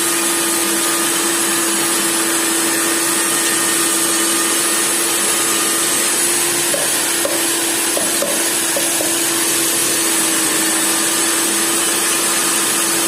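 Hilti DD 250 CA diamond core drill running at normal speed: a steady motor whine over dense grinding noise, with a few short faint squeaks about seven to nine seconds in.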